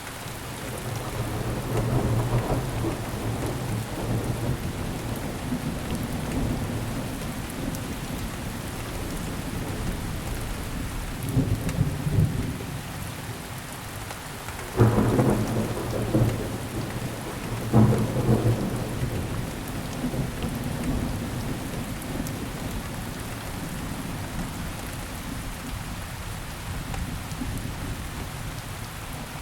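Steady rain with thunder. Low rumbles swell and fade, and two sudden louder claps come about halfway through.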